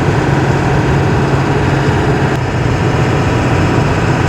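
2000 Ford F350's 7.3-litre Power Stroke turbo-diesel V8 running steadily at highway cruising speed, with a constant low hum over steady road and tyre noise.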